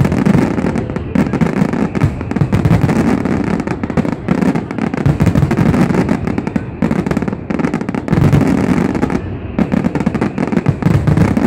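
Fireworks finale barrage: a dense, continuous run of shell bursts and crackling reports, overlapping rapidly with heavy low booms throughout.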